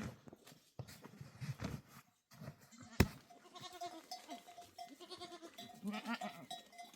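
Goats bleating from a herd, with a sharp knock about three seconds in.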